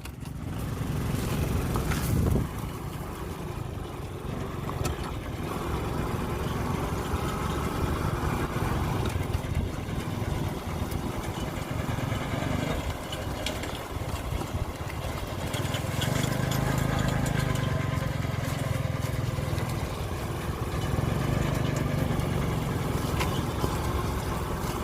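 Single-cylinder motorcycle engine of a three-wheeled mini truck running as it drives, its loudness rising and falling, with a stronger, steadier drone about two-thirds of the way through.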